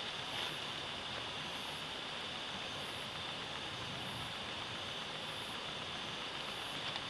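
Campfire burning, with a few faint crackles near the start and near the end, over a steady rushing background noise and a constant high hiss.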